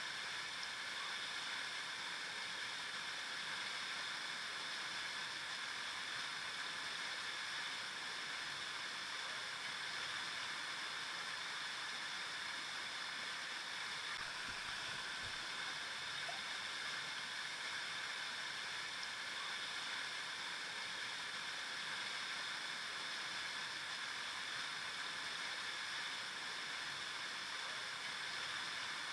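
River water flowing over rocks: a steady, even rush of running water with a little gurgling.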